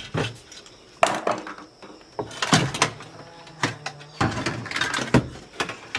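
A series of sharp knocks and clatters, with scraping between them, as the pulsator wheel of a semi-automatic washing machine, just pried loose from its shaft, is lifted out of the tub and handled.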